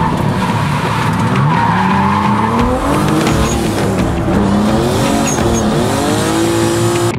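Drifting car sliding, its tyres squealing while the engine revs rise and fall several times.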